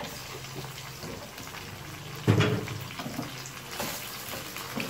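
Raw chicken pieces and sliced onions sizzling in hot oil in a wok while a spatula stirs them. There is a brief louder knock about two seconds in, and the hiss grows brighter near the end.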